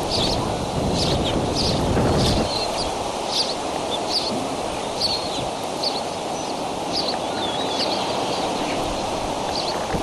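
Short, high bird chirps repeated roughly once or twice a second, over a rumble of wind on the microphone that eases after about two and a half seconds.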